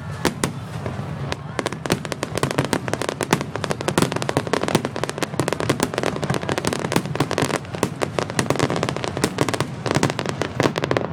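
Aerial fireworks crackling: a dense, continuous stream of rapid sharp pops, some louder than others.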